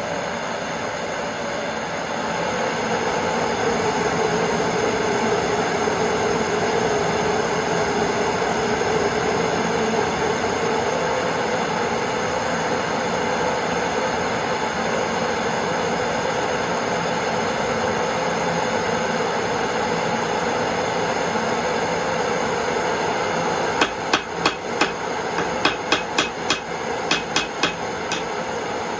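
Torch burning with a steady rushing noise. Near the end, about a dozen quick hammer blows ring out on metal, two or three a second: a small hot nail being hammered flat on an anvil.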